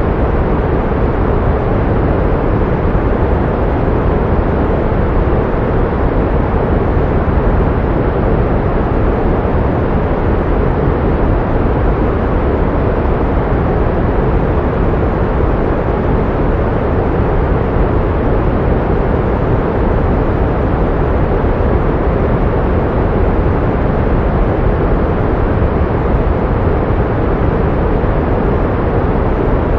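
Synthetic pink noise: a steady, even rushing hiss with more weight in the low end than in the treble, unchanging throughout.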